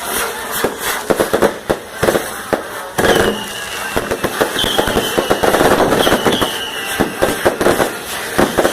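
Firecrackers popping in rapid, irregular succession, many sharp bangs, thickening about three seconds in, with a few short falling whistles in the middle.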